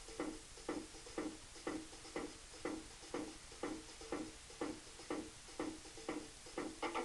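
Song intro on a backing track: a short pitched tick or muted note repeated steadily about twice a second, with fuller instrumentation coming in right at the end.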